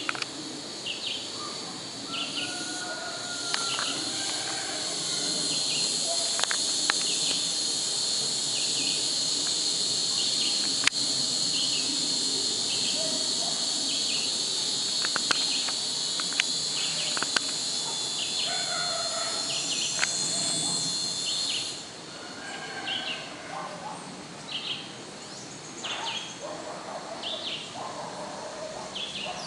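Outdoor chorus of insects making a steady high drone, with short chirps repeating about once a second and scattered bird calls; the drone drops away suddenly about two-thirds of the way through.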